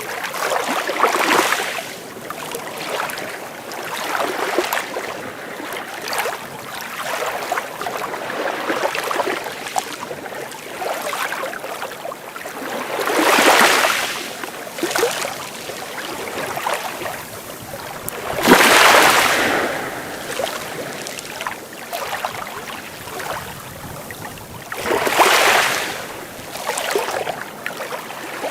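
Sea waves breaking and washing on the shore, a steady wash of surf with louder breakers about a second in, around 13 s, 18 s and 25 s.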